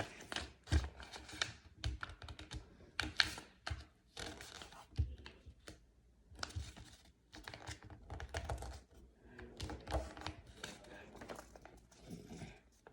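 A4 paper being folded and creased by hand: irregular crisp crackles and clicks of the sheet, with some soft low knocks.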